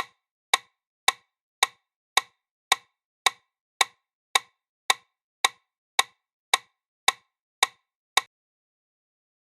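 Metronome-like ticking: sixteen sharp, identical clicks, evenly spaced at about 110 a minute (the pace for CPR chest compressions), that stop about a second before the end, with dead silence between them.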